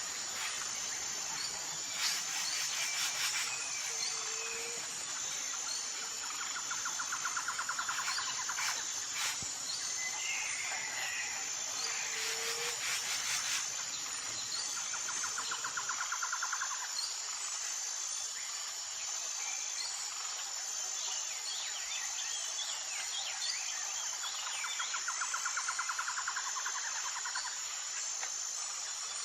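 Tropical jungle ambience: a steady, high-pitched insect chorus, with short rapid trills coming back every few seconds and scattered bird chirps and whistles.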